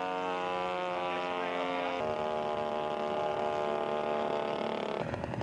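Radio-controlled model airplane engine running steadily at high speed, its pitch stepping to a new steady note about two seconds in. Near the end it gives way abruptly to a rougher, rapidly pulsing engine sound.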